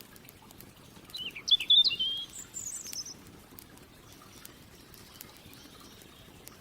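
A songbird sings one short phrase of quick chirping notes, starting about a second in and climbing higher near its end, over the light crackle and snapping of a campfire.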